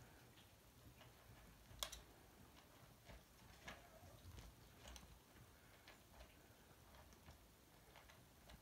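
Near silence, broken by faint, irregular little clicks and smacks of kittens eating soft, soaked cat food. One sharper click comes about two seconds in.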